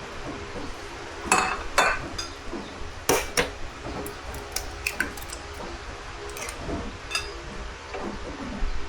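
Dishes and utensils clinking and knocking together: a few louder ringing knocks in the first three and a half seconds, then lighter scattered clinks.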